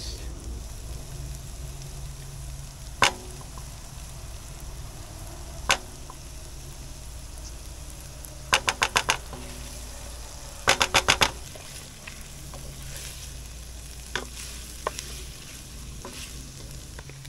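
Onions and butter sizzling in a stainless steel pot while a wooden spoon stirs and scrapes tomato paste into them. Sharp knocks of the spoon against the pot cut through: single ones about three and six seconds in, then two quick runs of about five raps around the middle.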